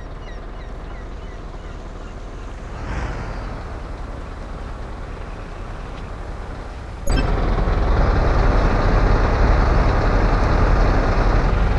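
Truck engine running with a steady rumble, jumping sharply louder about seven seconds in and staying loud until it cuts off suddenly at the end.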